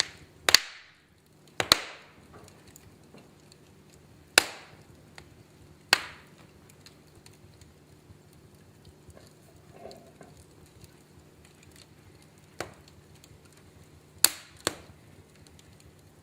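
Wood fire crackling in a fireplace: sharp, irregular pops from the burning logs, about seven in all, over a faint steady background.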